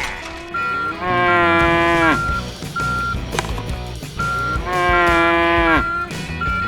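A cow mooing twice, each moo about a second and a half long and dropping in pitch at its end. Under it, a vehicle's reversing beeper sounds steadily about every 0.7 s.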